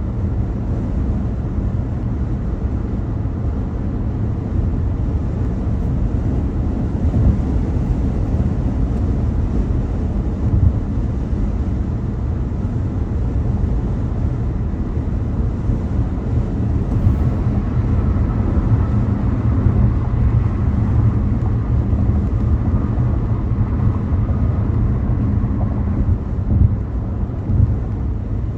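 Car driving on a highway: a steady low road and tyre rumble, with a faint higher whine joining it past the halfway point.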